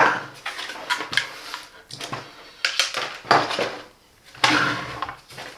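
Hard plastic vacuum-cleaner parts being handled: a series of irregular clicks, knocks and rattles as the attachments and body pieces are fitted and set down.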